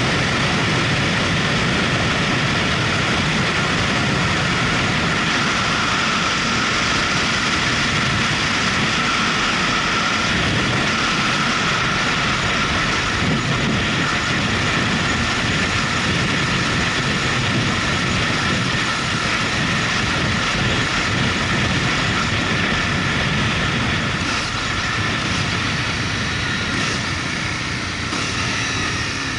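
Motorcycle running steadily at road speed under a constant rush of wind and road noise, easing off at the very end.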